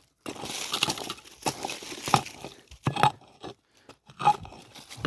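Digging tool chopping and scraping into stony soil, with a handful of sharp strikes as it hits rock and grit, about one every second.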